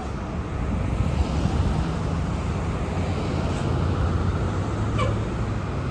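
Roadside traffic: a heavy vehicle's engine running with a steady low rumble that grows a little louder about a second in.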